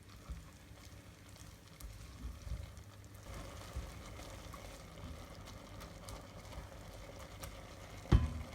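Soft handling knocks, then from about three seconds in a steady hiss of a pot boiling on the stove, with one sharp knock near the end.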